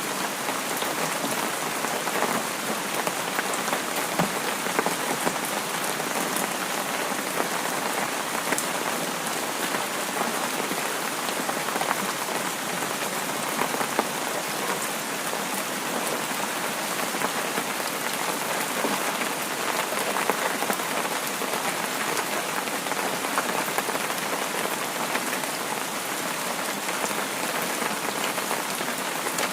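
Steady rain falling, a dense, even hiss of many drops with small crisp patters from drops hitting a surface.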